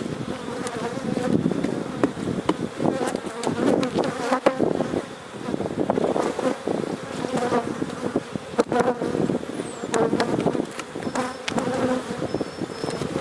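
A dense swarm of Carniolan honey bees buzzing continuously around the open hive and close to the microphone, the pitch wavering as individual bees fly past. A few sharp clicks sound through the buzz.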